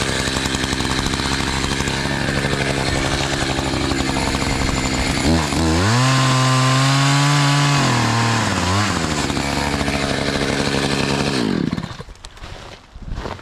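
Two-stroke chainsaw running at high throttle, cutting into a tree trunk. About halfway through, its pitch rises and it gets louder for a few seconds before settling back, and it drops away sharply near the end.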